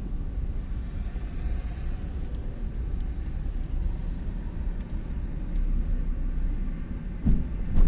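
Steady low rumble of a car driving, with two short knocks near the end.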